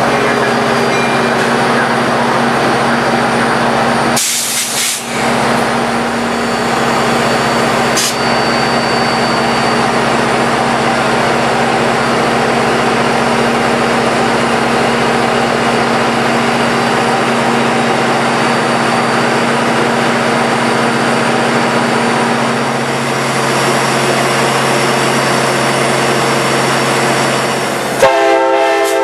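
A passenger train standing at a platform, its diesel locomotive running with a steady drone, with a brief break about four seconds in. Near the end the sound changes suddenly to a train horn chord.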